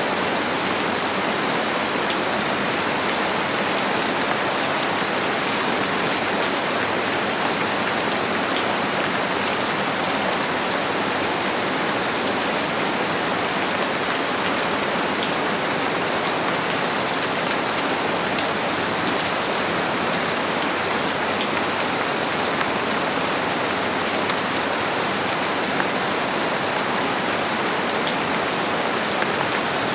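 Steady rain falling and pattering on surfaces, an even hiss with small drop ticks throughout.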